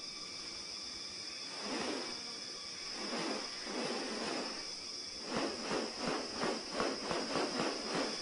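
Rainforest ambience: a steady high-pitched insect drone, joined about five seconds in by a run of short rasping pulses, roughly three a second.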